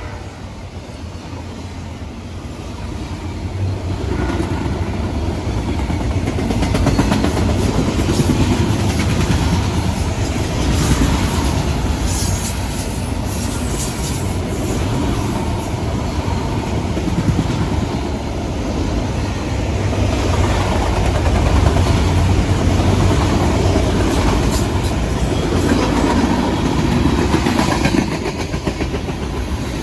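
Train rolling past close by: a steady rumble with rapid clacking of wheels over the rail joints, growing louder over the first few seconds and then holding.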